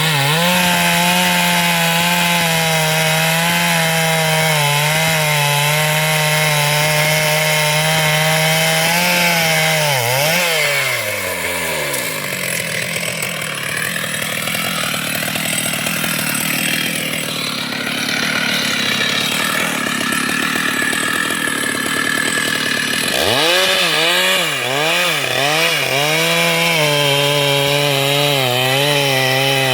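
Chainsaw running at high revs, the engine note dropping away about ten seconds in into a rougher, noisier stretch, then climbing back about 23 seconds in with its pitch wavering up and down as it works.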